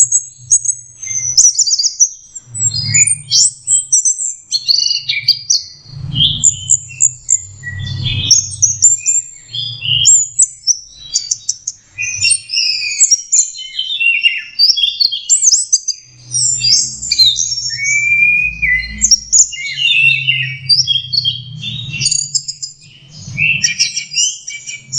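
Orange-headed thrush (anis merah) singing a continuous, varied song of quick high chirps and short whistled phrases, the song of a bird still learning to sing. A low hum comes and goes underneath.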